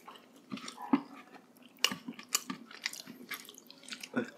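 Mouth sounds of eating braised pork hock (pata hamonado) and rice: chewing and biting, with a string of short, sharp clicks and smacks, the loudest about a second in and near the two-second mark.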